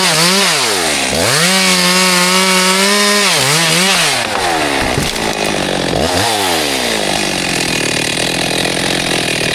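Chainsaw engine running at high revs, its pitch dropping sharply and climbing back about three times, then running lower for the last few seconds before it cuts off suddenly at the end.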